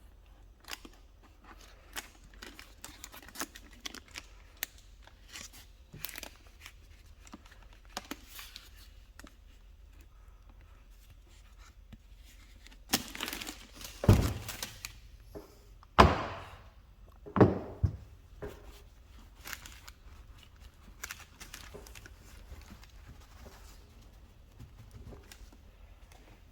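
Masking tape being torn and pulled, with scattered small clicks and knocks of handling. About halfway through come four louder tearing strokes, each up to about a second long.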